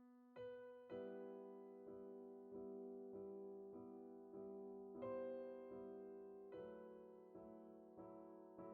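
Soft, slow background piano music: chords struck about once every second or less, each note fading before the next.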